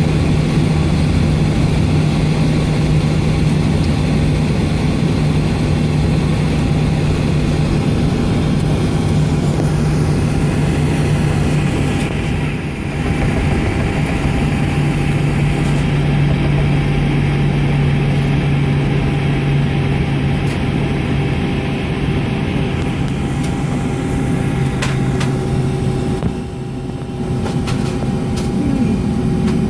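Steady low hum heard inside the cabin of a Boeing 757 on the ground before departure, from the aircraft's engines and systems, with a few constant tones over it and two brief drops in level.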